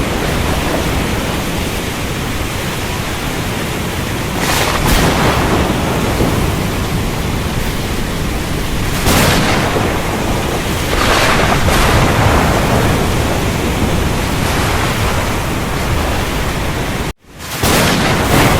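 Thunderstorm: a steady heavy wash of rain and wind with a deep rumble, broken by several sudden cracking surges of thunder. The sound cuts out for an instant near the end.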